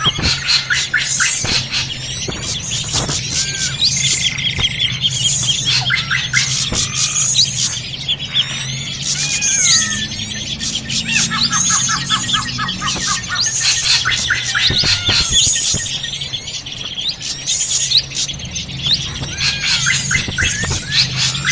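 A dense, excited chorus of drongo calls, rapid chirps, squeaky whistles and chattering notes overlapping without pause, as on a bird-lure recording of agitated drongos. A steady low hum runs underneath.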